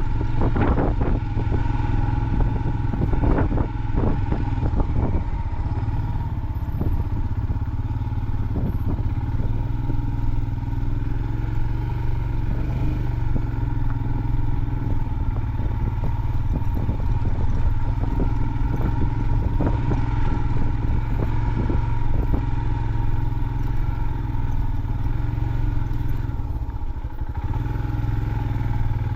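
Motorcycle engine running at low speed on a rough off-road trail, with bursts of clattering knocks in the first few seconds and again later as the bike rides over rough ground.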